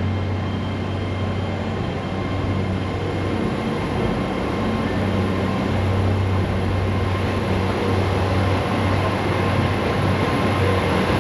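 Steady low mechanical rumble of a large vehicle, with a deep hum, getting slightly louder a couple of seconds in.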